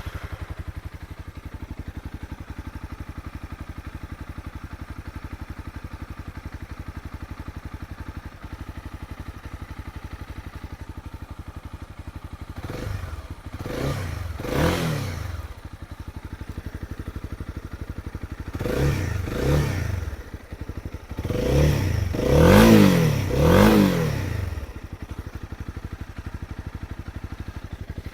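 Honda CB300R's single-cylinder engine idling just after starting, then revved in quick throttle blips that drop straight back to idle: three about halfway through, two more a few seconds later, and a final loudest set of three near the end.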